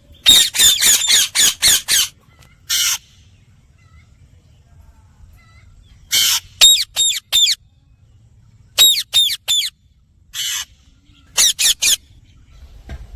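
Indian ringneck parrot calling: loud, sharp squawks in quick runs of three to seven, with a few harsher screeches between the runs and pauses of a second or more.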